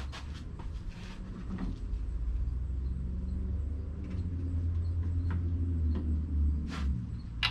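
A low rumble that swells over a few seconds and then fades, with scattered light clicks and knocks.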